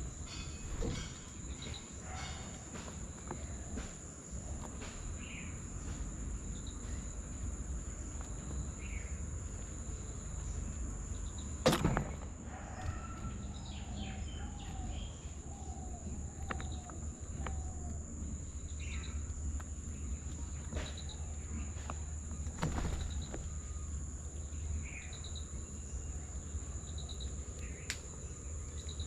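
Outdoor nature ambience: a steady, high-pitched insect drone under scattered short bird chirps, with a run of repeated chirps in the middle. A sharp knock sounds about twelve seconds in, and a lighter one later.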